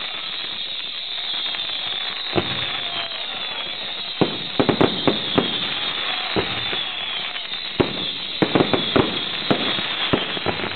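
Fireworks display: a steady crackling hiss with sharp bangs, the first about two seconds in, then a cluster of reports around four to five seconds and another rapid cluster near the end.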